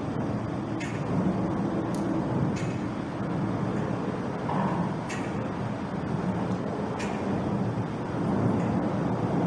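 Steady rumble of road traffic, with a few faint sharp clicks scattered through.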